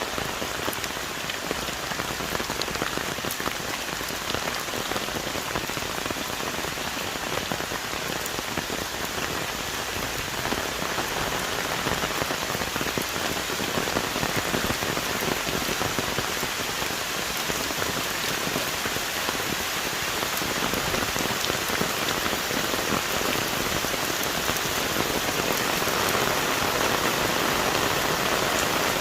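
Heavy rain falling steadily on forest trees and leaves, a dense hiss with countless fine drop impacts, growing a little louder in the second half.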